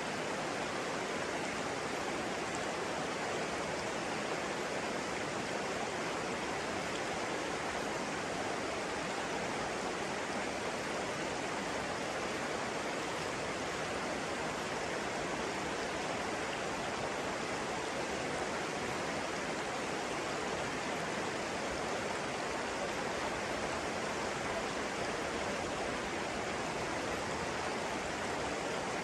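Running water, a stream or small waterfall, rushing steadily without a break.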